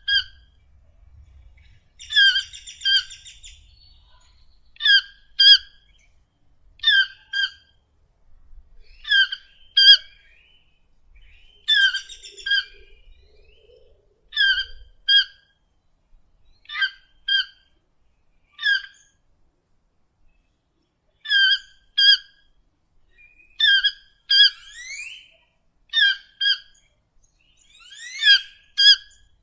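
A bird calling in short, clear notes, mostly in pairs, repeated about every two seconds. A few quick rising whistles join in near the end.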